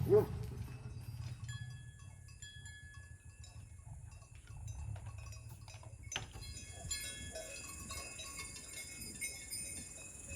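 Faint clinking of livestock bells over a low steady rumble, with a single sharp knock about six seconds in.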